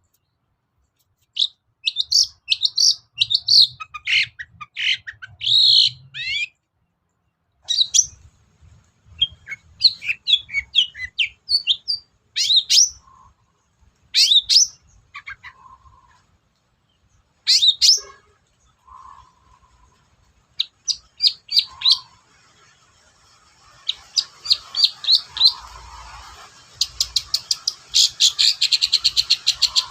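Long-tailed shrike (cendet) singing: groups of sharp, high chirps and scratchy trills with short pauses between them, ending in a fast run of rapid ticking notes.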